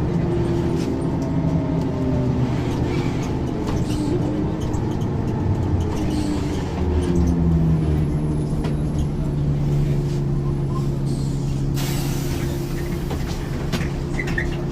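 Ikarus 435 bus's diesel engine running under way, with the engine note dipping and rising again around seven seconds in, then holding steady. About twelve seconds in, a hiss of compressed air is heard for a couple of seconds.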